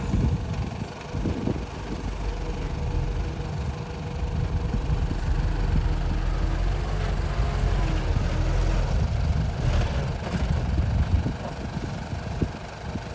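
Truck engine idling, a steady low rumble that grows a little quieter near the end.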